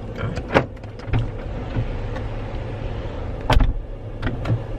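Car door shutting with a heavy thump about three and a half seconds in, after a sharp click about half a second in, over the car's steady low hum as someone gets into the car.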